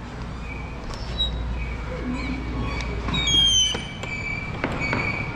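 Birds calling: short high whistled chirps, and a loud falling whistle about three seconds in, mixed with a few sharp clicks and a low rumble that stops about four seconds in.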